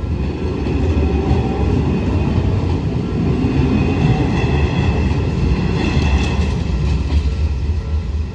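An Izuhakone Railway Daiyuzan Line electric train passing over a level crossing: a loud, steady rumble of wheels on the rails, with a few knocks as it crosses the rail joints. The crossing's Odakyu-type warning bell rings faintly over it.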